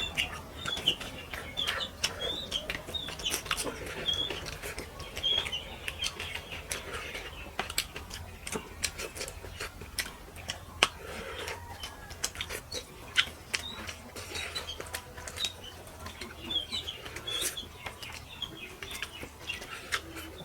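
Eating sounds of rice and fish curry being chewed: a steady run of short wet clicks and smacks. Small birds chirp repeatedly in the background.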